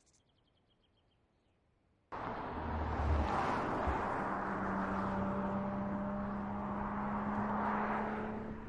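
Near silence with a few faint high chirps, then about two seconds in the sound of an Audi RS 5 Coupé cuts in abruptly: engine and road noise at a steady speed, with a steady low engine hum.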